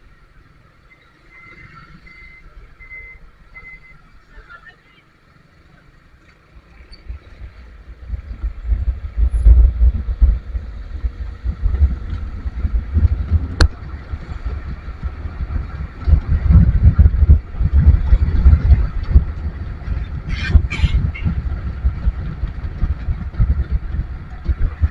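Road traffic heard from a slowly moving vehicle in a traffic jam. A few short high beeps come about two seconds in. From about eight seconds in, heavy low buffeting from wind on the microphone swamps everything else.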